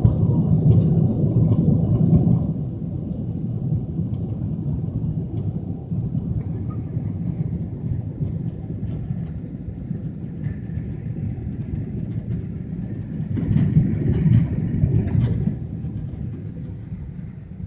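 Jet airliner cabin noise: a steady low rumble of engines and airflow, louder for the first couple of seconds and again about 13 to 15 seconds in, with faint scattered clicks and rattles.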